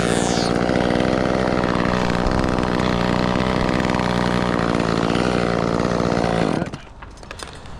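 Chainsaw engine running at a steady pitch, then cutting off suddenly about six and a half seconds in.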